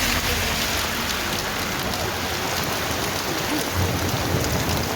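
Heavy rain falling steadily, a continuous hiss, with a low rumble swelling briefly about four seconds in.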